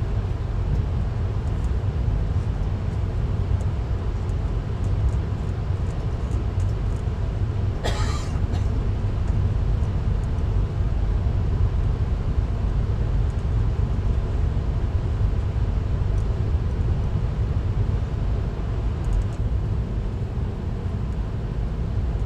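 VIA Rail passenger train running, heard on board as a steady low rumble of the ride, with a brief higher-pitched hiss about eight seconds in.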